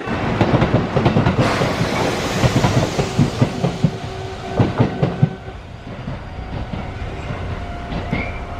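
Kintetsu train passing through the station, its wheels clacking over the rail joints several times, then the sound drops away a little after five seconds in.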